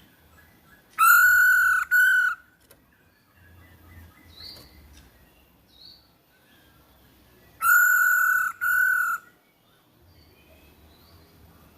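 Female masked laughingthrush (poksay hongkong) calling: a pair of long, level calls, then the same pair again about six seconds later, with faint chirps in between.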